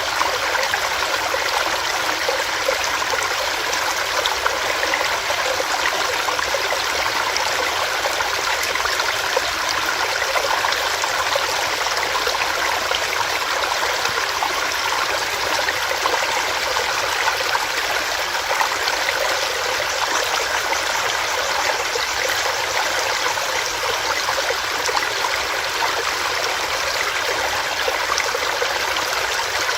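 Small rocky stream running steadily over rocks, a continuous rushing and trickling of water.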